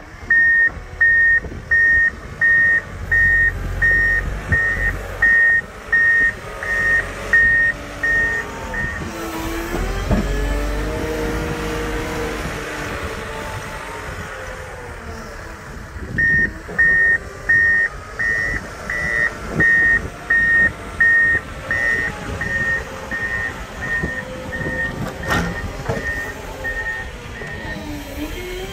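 Snow-clearing vehicle's reversing alarm beeping about twice a second while the engine runs, as it backs up. The beeping stops for several seconds while the engine revs, then starts again.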